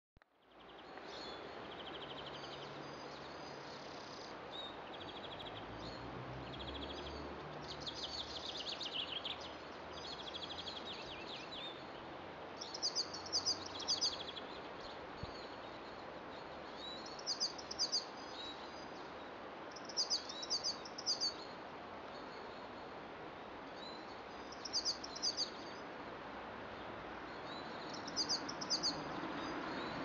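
Small birds chirping, with varied song at first and then short bursts of three or four quick high notes every few seconds, over a steady background hiss.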